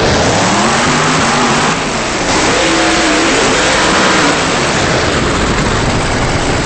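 Monster truck engine revving up and down several times, the recording loud and distorted.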